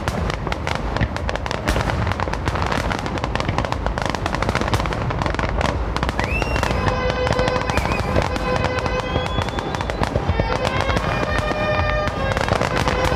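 Aerial fireworks display: a dense run of crackling and popping reports with a deep rumble underneath. From about halfway, music with long held notes sounds alongside the bursts.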